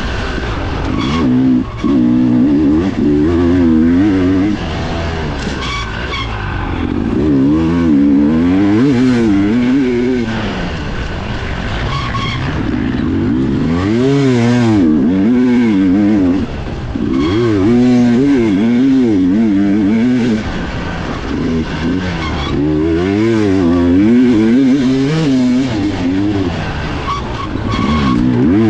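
Dirt bike engine heard from on board, revving up and easing off over and over as the rider works the throttle and shifts through a race section.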